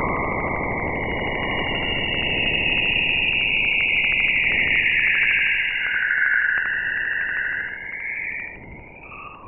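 A space recording turned into sound: a steady hiss under a high, wavering whistle-like band, with a fast even pulsing throughout. It weakens about a second before the end.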